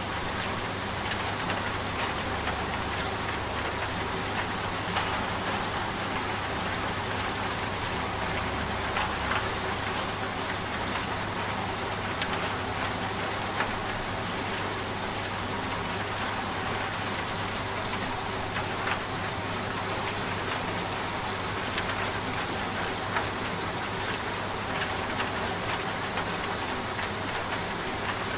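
Steady rain falling on a surface, with scattered sharp drop taps, over a low, steady hum from a running washing machine.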